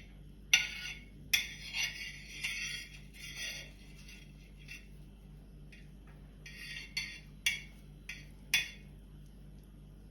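A utensil scraping and clinking against a pan while butter is spread on it: a series of short scrapes with sharp clinks, busiest in the first four seconds and again near the end.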